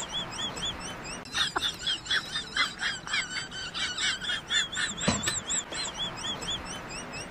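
Small birds chirping rapidly and without a break: high, arching chirps, several a second. One soft thump comes about five seconds in.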